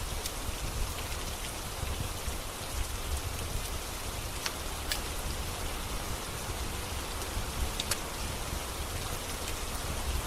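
Steady rain, with a low rumble underneath and a few scattered sharp clicks that fit the crackle of a wood fire.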